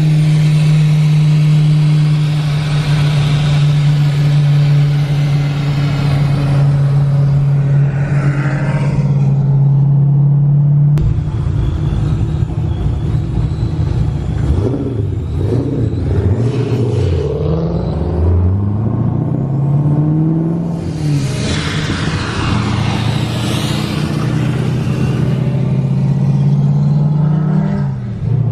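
Loud vehicle engine running at a steady speed, then revved up and down several times through the middle, with a rushing hiss, before settling back to a steady note.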